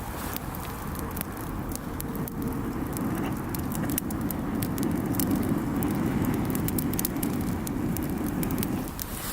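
Wood campfire crackling, with frequent sharp pops, over a low rumble that swells in the middle and eases near the end.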